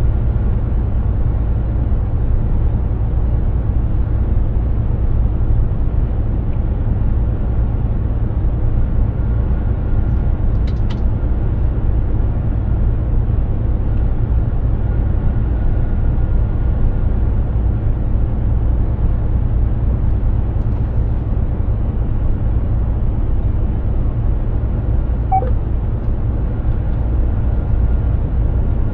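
Mercedes-Benz Actros 2763 truck driving along, a steady low drone of engine and road noise, with a short faint beep near the end.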